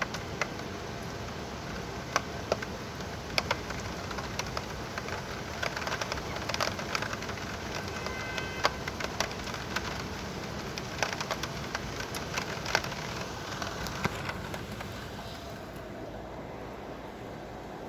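Heavy rain falling steadily as a dense hiss, with many sharp taps of drops striking a nearby surface. The hiss thins a little near the end.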